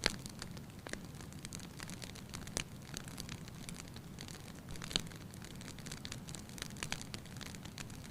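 Wood fire crackling in a fireplace: a steady low rumble with scattered snaps and pops, the sharpest right at the start, about two and a half seconds in and about five seconds in.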